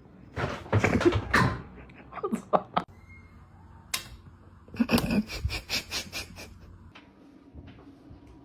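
A run of knocks and clatters about the room, loudest about a second in. Then comes a sharp click, and a quick rattling run of clicks that lasts about a second and a half.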